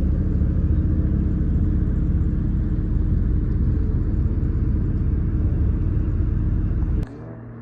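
Car engine running steadily, a low pulsing sound with no revving, that cuts off suddenly about seven seconds in.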